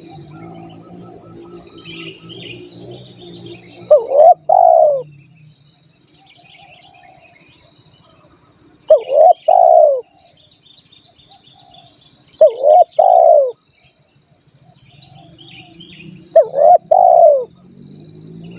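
Spotted dove (tekukur) cooing: four short phrases of two or three arched coos, about every four seconds. A steady high insect trilling runs underneath.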